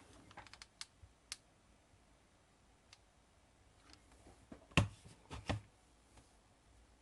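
Thin metal chain being handled, giving scattered small clicks and clinks: a few light ones in the first second and a louder cluster a little under five seconds in.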